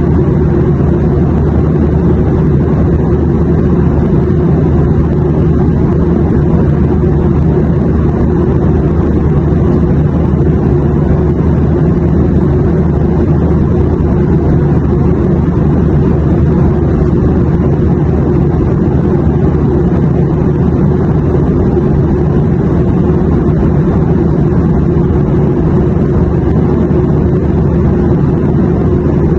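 Airplane in flight: a steady, low, unchanging drone of engine and rushing air.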